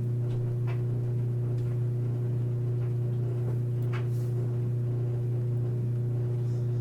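Steady low hum, even and unchanging, with a few faint light clicks of small parts being handled.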